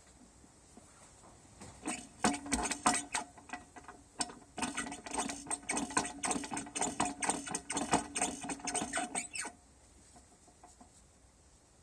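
Rapid metallic clicking and rattling from a tool working a bearing press on an engine mount bearing. It comes in two runs, a short one about two seconds in and a longer one from about four and a half seconds that stops suddenly near nine and a half seconds.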